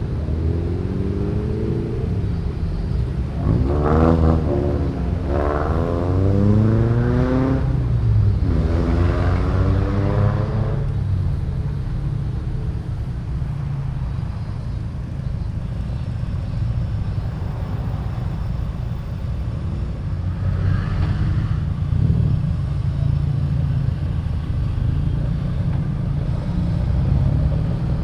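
Modified car engines accelerating away one after another, each rising in pitch, over a steady low rumble of other engines idling and creeping along. The revving comes in four quick pulls during the first ten seconds and once more around twenty seconds in.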